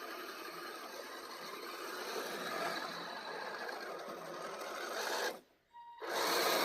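Small electric motor and geared drivetrain of a scale RC crawler whirring steadily. The sound cuts out abruptly about five seconds in, then returns briefly and louder just before the end.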